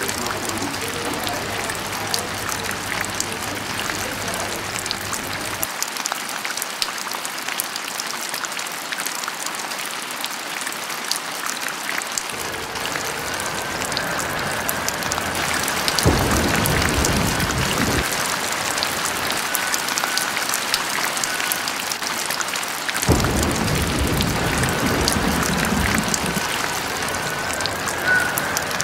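Steady rain falling, with many single drops pattering on a surface. A deeper rumbling swell comes in suddenly about halfway through and again about two-thirds through.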